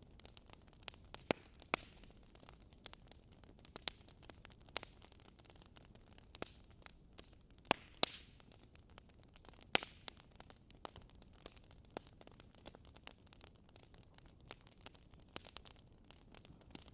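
Wood fire in a fireplace crackling: irregular sharp pops and snaps over a faint steady hiss, with a short burst of hissing about halfway through.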